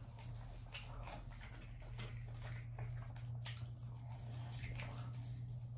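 Faint wet chewing and lip-smacking from a person eating a sauced barbecue pork rib, with a few soft clicks scattered through it, over a steady low hum.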